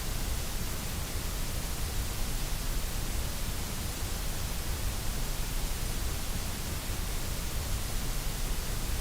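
Steady white noise: an even, unbroken hiss with no tones, rhythm or changes.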